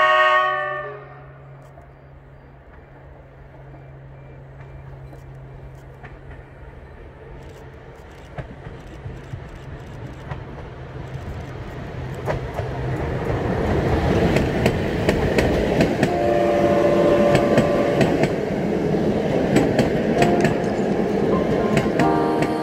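EP05 electric locomotive and its passenger coaches approaching and passing close by: a rumble of wheels on rail that grows steadily louder, with a run of sharp clicks as the coaches roll over the rail joints. A brief two-second horn blast sounds about three-quarters of the way in.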